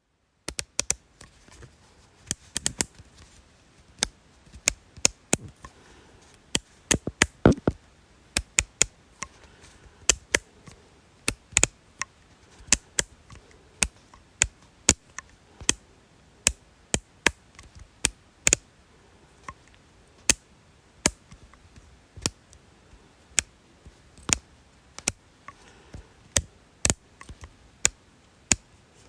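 A long series of sharp, dry clicks, about one or two a second at an uneven pace, some coming in quick pairs.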